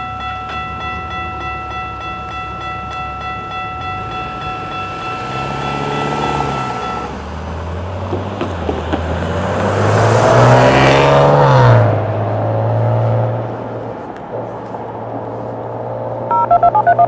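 A level-crossing warning bell rings steadily for several seconds and then stops, while a train approaches and passes at speed, swelling to its loudest about ten to twelve seconds in with its engine note dropping in pitch as it goes by. A low engine hum then carries on and fades.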